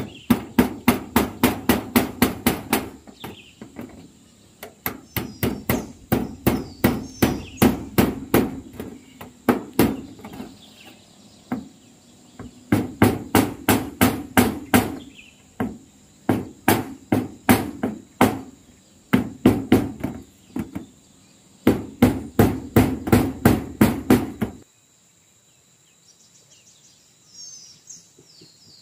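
Hammer driving nails in quick runs of sharp strikes, about five a second, in several bursts with short pauses between; it stops about 25 seconds in, leaving faint bird chirps.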